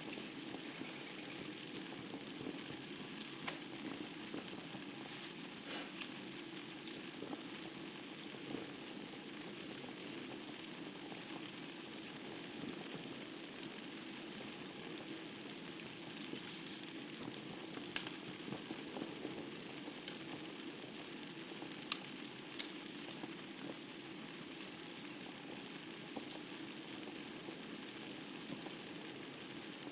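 Wood fire burning in a fireplace: a steady soft hiss of the flames with scattered sharp crackles and pops from the burning logs, a few louder pops about a third of the way in and again past the middle.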